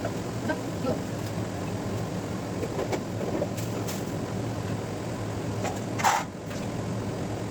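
Kitchen work sounds over a steady low hum: scattered light clicks and knocks, and a short hiss about six seconds in.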